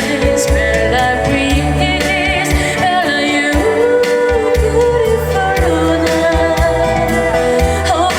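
Live vocal performance: a singer holding long notes with vibrato over an instrumental backing track with low bass notes.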